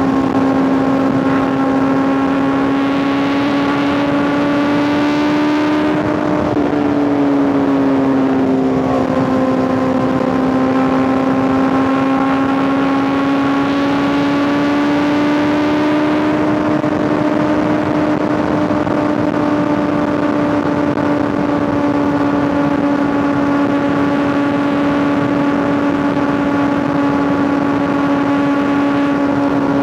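Honda CBR650R's inline-four engine through an Arrow Pro Race titanium full exhaust, running steadily under way. Its pitch dips briefly about six seconds in and again just before nine seconds, then climbs slowly.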